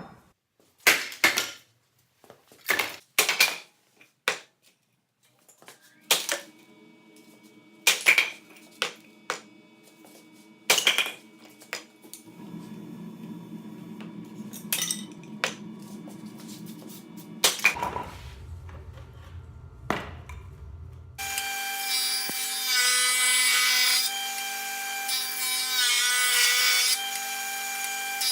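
Woodworking on a piece of walnut firewood: sharp knocks and clatter of wood and tools being handled, then a power tool running. About two-thirds of the way through, a louder machine with a steady whine takes over and comes in repeated stretches.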